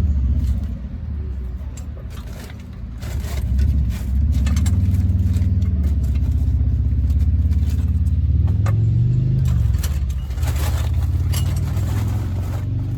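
A motor vehicle engine running, its pitch rising and falling, with a brief rise in revs about eight seconds in.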